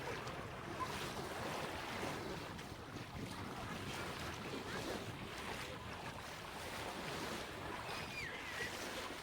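Gentle Mediterranean waves lapping and washing on a sandy shore, with wind buffeting the microphone. A faint high call glides briefly near the end.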